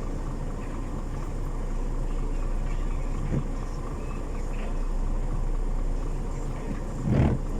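Steady low hum of an idling truck engine under a haze of wind noise. There is one short, louder sound about seven seconds in.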